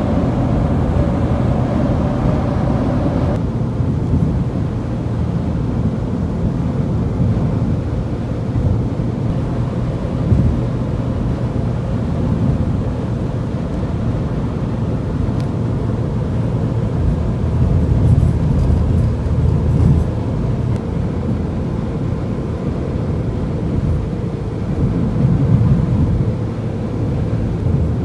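Car driving on the highway, heard from inside the cabin: a steady low rumble of road and engine noise. A brighter hiss above it drops away about three seconds in.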